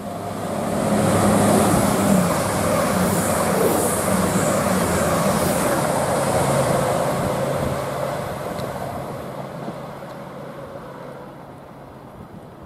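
Class 222 Meridian diesel multiple unit passing through at speed: underfloor diesel engines with the rush of wheels on rail. It builds to a peak within about two seconds, holds, then fades away after about eight seconds.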